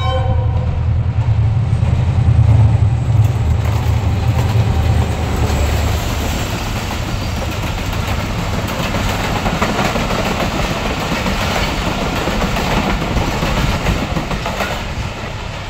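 Pakistan Railways diesel locomotive passing close by, its engine giving a heavy low rumble that is loudest two to three seconds in. The passenger coaches then roll past with a steady rushing clatter of wheels on rail.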